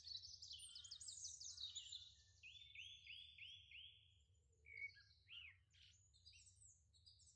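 Faint birdsong: several birds chirping and trilling, with a run of about five repeated curved notes near the middle. It dies away about six seconds in.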